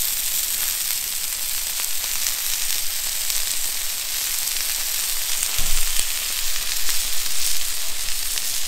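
Flank steak and fried potatoes sizzling in oil on a hot steel fire plate, the steak searing on its freshly turned second side. A steady sizzle with fine crackles, and a light knock a little past halfway.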